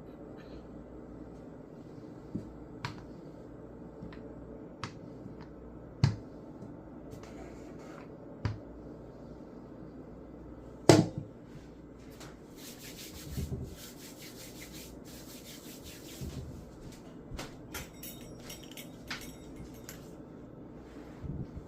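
Kitchen handling sounds: scattered knocks and clicks of utensils and dough being worked on a counter, with one loud knock about halfway through and a couple of brief stretches of scraping and rubbing.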